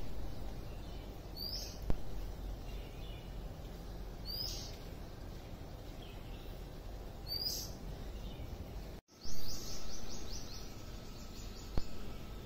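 Oriental magpie-robin calling: a short, high rising note three times, about three seconds apart, then a quick run of about ten high chirps near the end.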